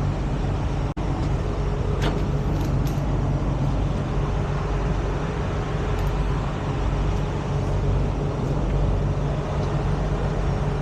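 Heavy truck's diesel engine running steadily with a low drone, briefly cutting out about a second in.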